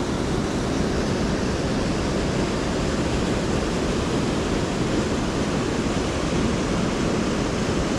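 Steady rushing of mountain-stream water flowing over rocks, running at an even level with no breaks.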